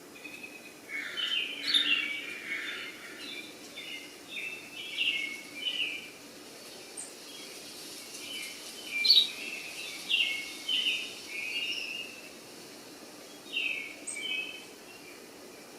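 Birds chirping: many short, high calls in irregular clusters over a steady background hiss, with one sharper call about nine seconds in.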